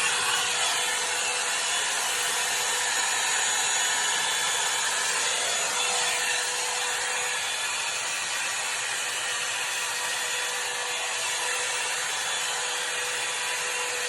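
Hot air brush running: the steady rush of its blown air with a constant motor whine. It is being worked through short hair.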